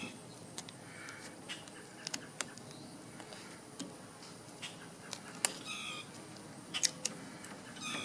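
A small bird chirping a few short times over faint outdoor background, with scattered light clicks and crinkles of duct tape being handled and wrapped around a broom handle.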